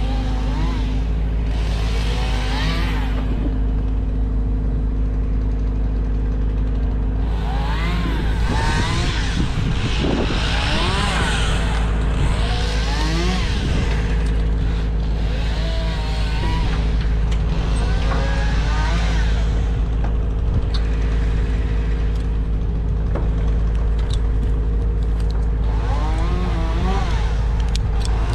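An engine running steadily at a constant speed. Short rising-and-falling pitched sounds come and go over it every second or two.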